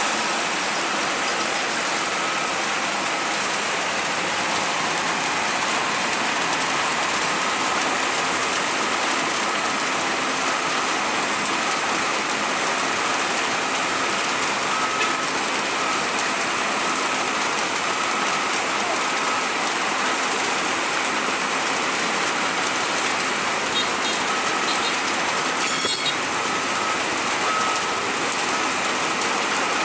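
Steady rain falling, a continuous even hiss with no break, and a faint high whine coming and going underneath.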